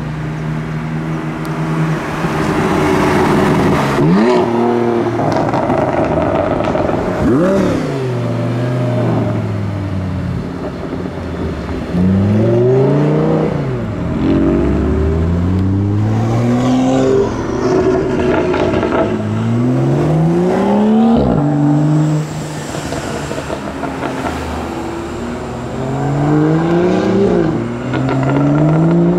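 Sports cars, among them a BMW M4, a Lamborghini Gallardo and a BMW M2, accelerating hard away one after another. Each engine revs up with rising pitch, then drops sharply at each gear change.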